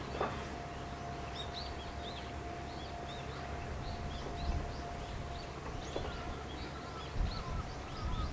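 Small birds chirping in quick, repeated short calls over a steady low outdoor rumble, with a faint steady hum running underneath.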